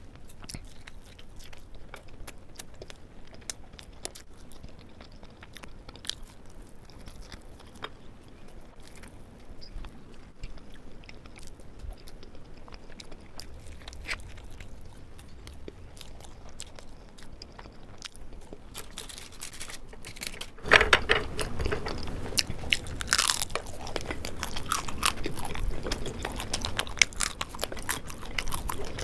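Close-miked mouth sounds of someone eating a soft laddu: quiet chewing with many small wet clicks. The chewing turns suddenly louder and denser about two-thirds of the way through.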